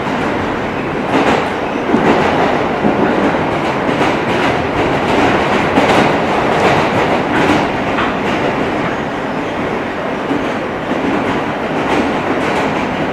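R160 subway car running between stations, heard from inside: a steady rumble of wheels on rail with occasional clacks over rail joints.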